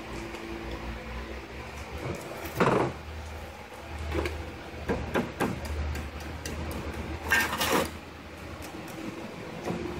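Metal parts and tools clinking and knocking as they are handled during motor disassembly, with two louder clanks, one near the start and one past the middle, over a low steady hum.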